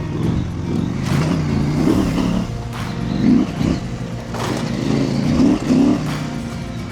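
Husqvarna Norden 901's parallel-twin engine revving up and dropping back several times as the motorcycle is ridden over an off-road track, with a few brief knocks.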